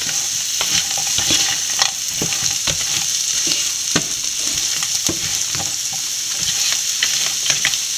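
Crab fry sizzling in oil in a frying pan, a steady hiss, while a wooden spatula stirs it with frequent irregular scrapes and taps against the pan.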